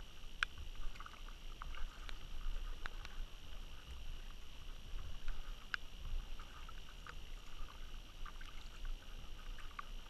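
Kayak on the river: small splashes, drips and knocks of water against the hull and paddle, scattered irregularly over a low rumble of wind on the microphone and a steady high hiss.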